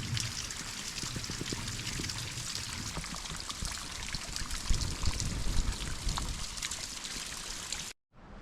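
Small waterfall: water trickling and splashing steadily down a mountain stream, cut off suddenly near the end.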